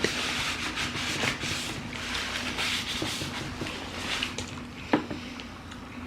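Eating sounds: chewing, with many small clicks and rustles of food and utensils, and one sharper knock about five seconds in.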